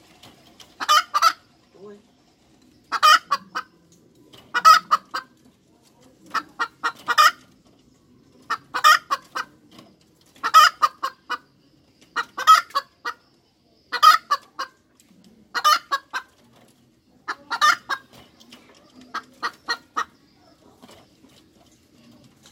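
Hen cackling in a repeated run of short clucks, about eleven bursts, one every couple of seconds.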